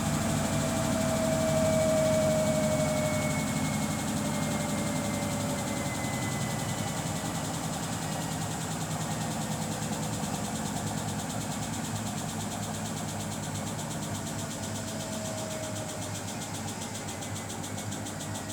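Samsung Bespoke AI WW11BB704DGW washing machine spinning with a rapid clicking noise. A motor whine drifts slowly down in pitch, and the sound peaks about two seconds in, then eases off gradually.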